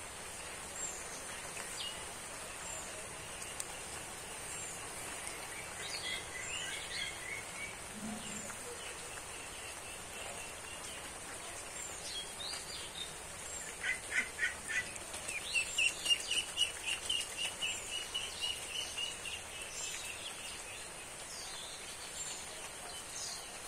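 Songbirds chirping and calling over a steady outdoor hiss, with a constant high-pitched whine underneath. About two-thirds of the way in, a quick run of repeated notes leads into a long rapid trill, the loudest bird sound here.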